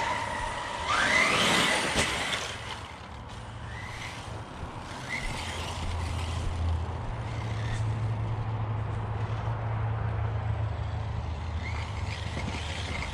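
Brushless electric motor of an RC monster truck, a Spektrum 1250kv on 8S, whining up in pitch under hard acceleration about a second in, then giving short throttle blips. A low steady hum runs underneath through the middle.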